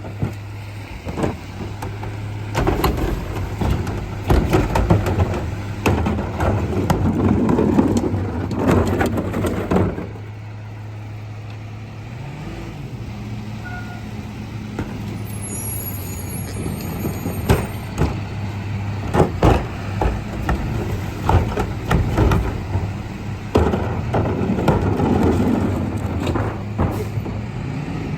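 Garbage truck's diesel engine running steadily, with repeated bangs and clatter of trash and bins being emptied into it. Partway through, the engine note rises briefly.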